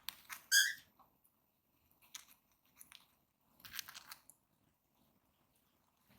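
Cockatiels grinding their beaks: several short bursts of fine, rapid rasping clicks, a sound typical of a relaxed, contented bird. Near the start a brief high pitched note, the loudest sound.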